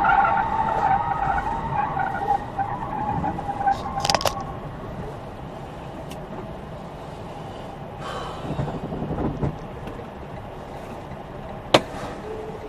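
A car driving, engine and road noise, with a steady whine that fades away in the first few seconds. Two sharp clicks stand out, about four seconds in and again near the end.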